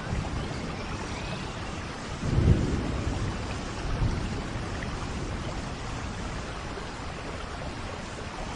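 Steady tropical rain falling, with a low rumble of thunder swelling about two seconds in, the loudest moment, and a smaller rumble around four seconds in.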